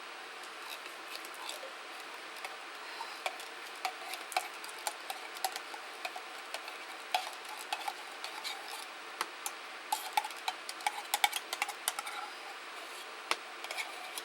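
A spoon clinking and scraping against a can and a mixing bowl, scooping out condensed cream of chicken soup. The clicks come irregularly and get busier about ten seconds in.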